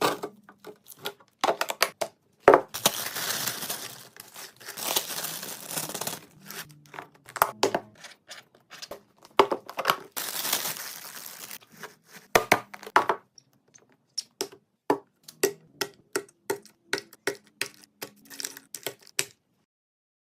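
Plastic packaging crinkling and being torn open, with many sharp taps and clicks of items and containers being handled and set down during a fridge restock. The sounds stop abruptly about a second before the end.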